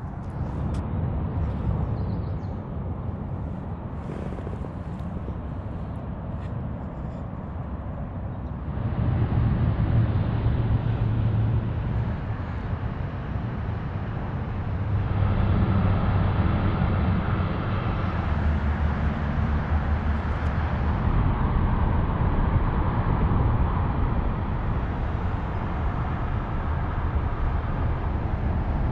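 Distant freeway traffic: a steady outdoor rumble that swells louder about nine seconds in and again around fifteen seconds in.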